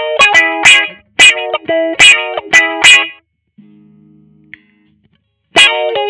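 Squier Vintage Modified Jaguar electric guitar through an amplifier, playing picked chords and single notes in a quick rhythmic pattern. The playing stops for about two seconds in the middle, leaving only a faint amp hum, and starts again near the end.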